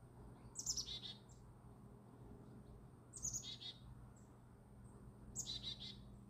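A songbird singing the same short song three times, about every two and a half seconds: each a high note sliding down into a quick run of repeated notes. A low steady hum lies underneath.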